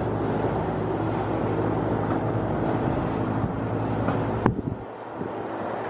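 A steady engine drone that cuts off with a sharp click about four and a half seconds in, leaving wind buffeting the microphone.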